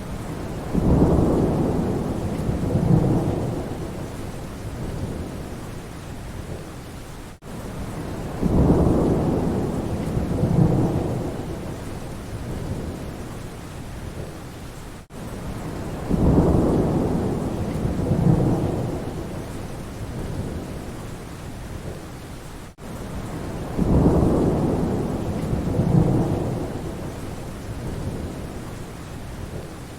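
Steady rain with rumbles of thunder: four identical rumbles, each swelling twice, come about every seven and a half seconds. A brief dropout just before each rumble shows a short recording played in a loop.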